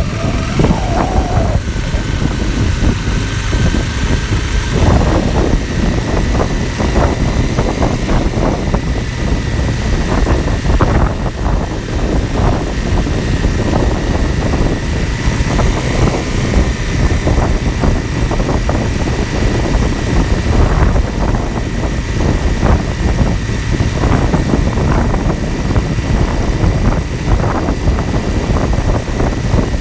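Dual-sport motorcycle engine running under way, picked up by a phone mounted on the bike, with wind rush and frequent knocks and rattles as the mount shakes.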